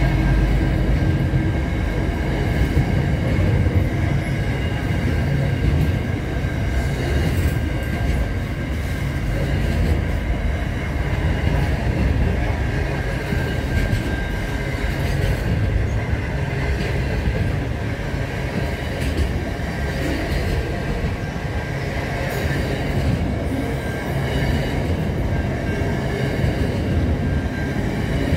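Long freight train of car-carrier and container wagons passing at speed: a steady rumble and rattle of wheels on the rails and the wagons running by.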